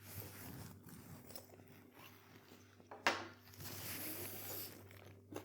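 A person chewing a mouthful of meat-free burger, with a sharper bite or crunch about three seconds in.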